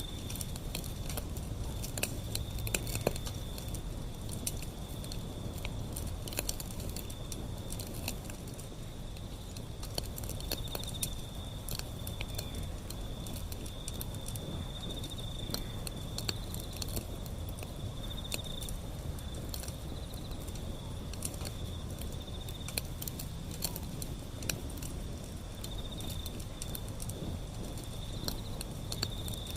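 Wood fire burning, with frequent sharp crackles and pops over a low rumble of flame. A cricket-like insect chirps in the background in long high trills that come and go.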